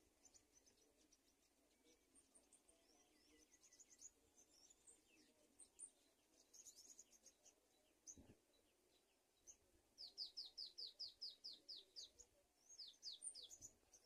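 Thin, high bird chirps: scattered short notes in the first half, then a rapid run of about ten quick downward-sweeping notes about ten seconds in, and a few more just before the end.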